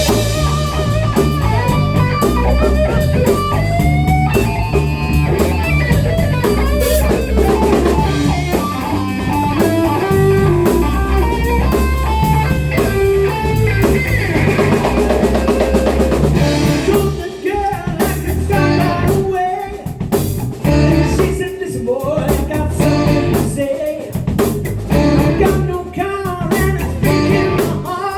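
A band playing a rock song: electric guitar over bass and drum kit, with bending guitar lines.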